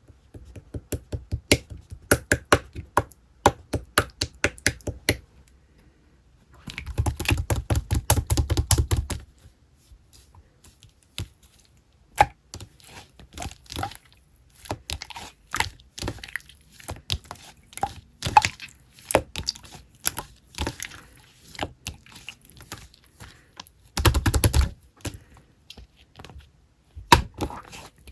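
A run of sharp clicks and taps at an uneven pace, with two denser stretches of rustling about seven and twenty-four seconds in.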